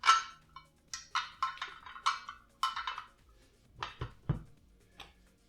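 Small die-cast metal and plastic model-engine parts clicking and tapping as they are handled and pressed together on a work surface, a quick run of sharp clicks followed by two duller knocks near the end.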